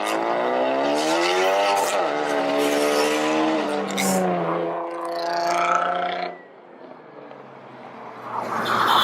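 A car engine accelerating hard as the car pulls away. Its pitch climbs, drops at a gear change about two seconds in, climbs again and holds, then the sound falls away suddenly about six seconds in. A rising rush of noise builds near the end.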